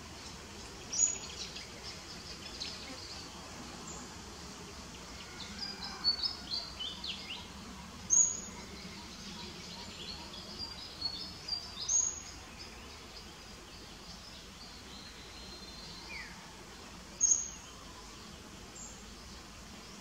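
Outdoor ambience with birds chirping: four sharp, high chirps a few seconds apart stand out, with runs of quieter twittering between them.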